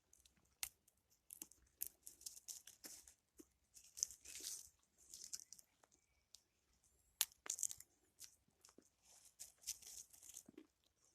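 Faint, irregular crunching and crackling: many short, crisp crunches at uneven intervals, in clusters with brief pauses between them.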